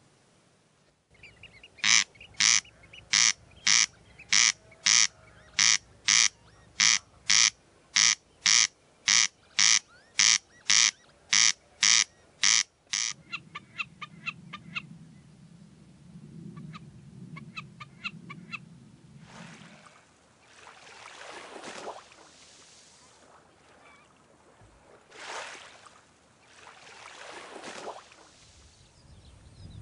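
An animal calling in a loud, regular series of about nineteen identical calls, roughly two every second and a bit, stopping about 13 seconds in, followed by fainter, quicker calls for several seconds. In the last third, a few swells of rushing noise rise and fade.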